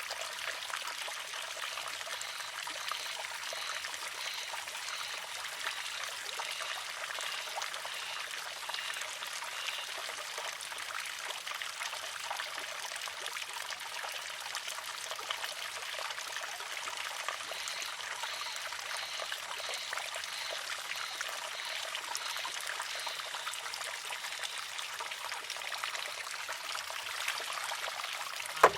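Water trickling and pouring steadily into a wooden shishi-odoshi. Right at the end comes a single sharp clack as the filled arm tips over and strikes the rock.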